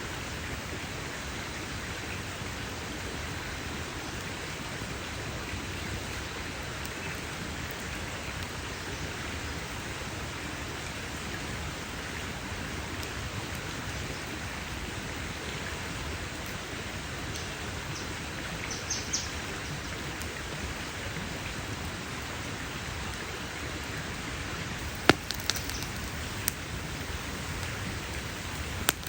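Campfire burning with a steady hiss, broken in the second half by a few sharp pops and crackles from the burning wood.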